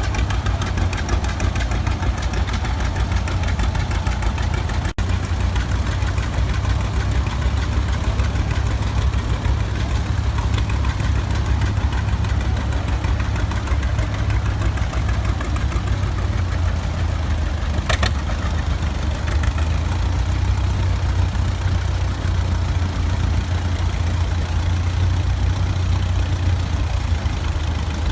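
An engine running steadily at a low, even speed, with a brief dropout about five seconds in.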